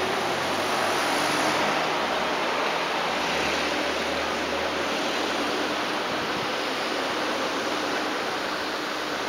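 Train running noise: a steady rush of wheels on rail with a low hum that fades out about two-thirds of the way through as the sound slowly eases.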